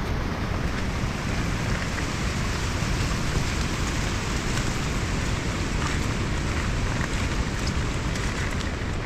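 Heavy rain falling steadily: a continuous hiss with a few faint drop ticks.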